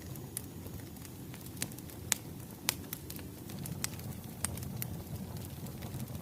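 Wood fire crackling: irregular sharp pops and snaps, a dozen or so, over a low steady rumble of burning logs.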